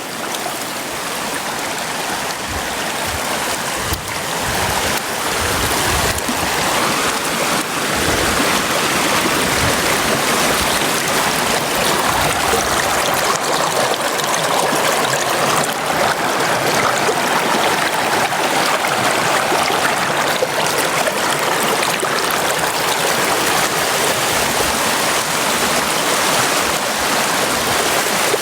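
Brook water flowing steadily, growing louder over the first few seconds and then holding even.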